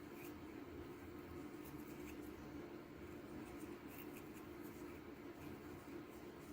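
Faint scratching of a small brush scrubbing carbon deposits off a vending-machine boiler part, with a steady low hum underneath.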